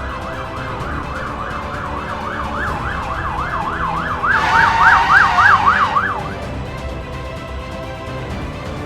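Emergency-vehicle siren in a fast yelp, rising and falling about four times a second. It grows louder around the middle, then stops about two-thirds of the way through.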